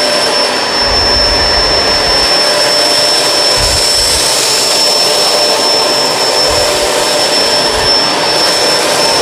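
Kenmore Crossover Ultra upright vacuum running with its brush roll on as it is pushed over a rug, a steady loud motor noise with a high whine, with a few low bumps.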